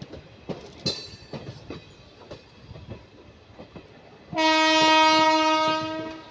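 Indian Railways passenger coaches rolling past with the steady clickety-clack of wheels over rail joints and a brief high squeal just under a second in. Past the middle, a loud single-note locomotive air horn sounds for about two seconds, then fades.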